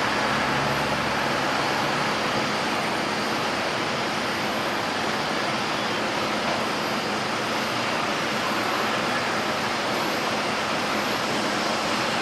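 Passenger jet engines running, a steady even rush of noise that holds its level and pitch throughout.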